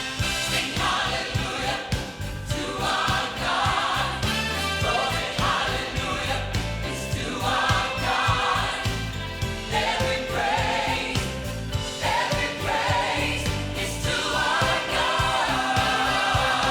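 Church music: a group of voices singing in phrases over steady instrumental accompaniment.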